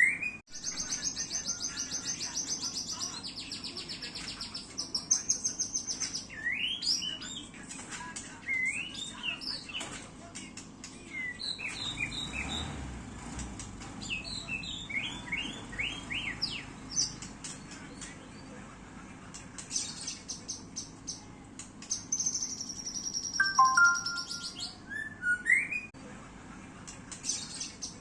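White-rumped shama (murai batu) singing a long, varied song: fast high trills that alternate with clear whistled notes sliding up and down, broken by short pauses.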